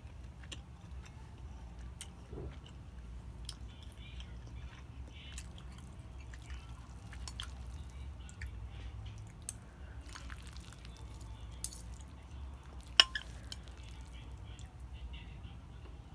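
Close-miked eating: chewing and small wet mouth clicks from someone eating noodles, over a steady low hum. One sharp tap stands out about thirteen seconds in.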